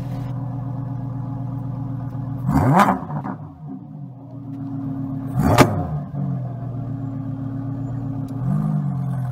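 Lamborghini Huracán Evo GT Celebration's 5.2-litre V10 idling, blipped twice about three seconds apart in sharp revs that climb and fall back within a second, the second the loudest, then a small blip near the end.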